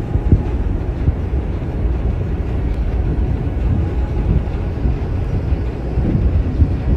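Loud, uneven low rumbling noise with no steady pitch, flickering up and down throughout.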